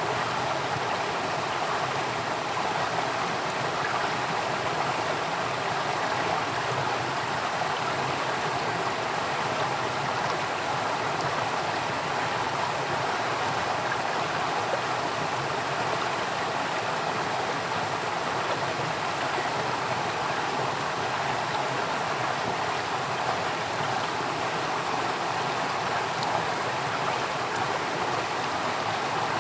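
Flowing water, a stream running steadily without pause.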